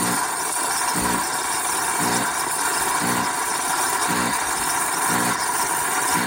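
Chefman 6-in-1 espresso machine running its latte cycle without the button being pressed: a steady hiss with a low buzz pulsing about once a second. The milk is not frothing properly, a fault of the machine.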